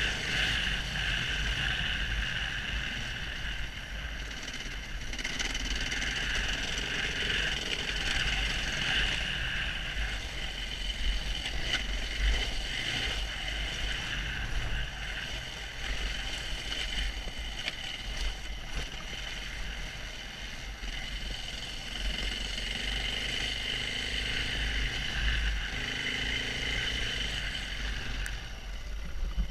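KTM 690 Enduro R's single-cylinder four-stroke engine running under load while riding, its sound rising and falling as the throttle is worked, with a low rumble underneath.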